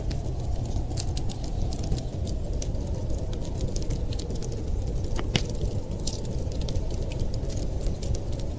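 Wood fire crackling with frequent small pops and one louder snap near the middle, over a steady low rumble of blizzard wind.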